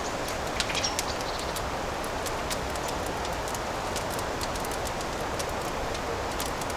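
Fireplace fire crackling: a steady hiss with scattered sharp pops, a quick cluster of them about a second in.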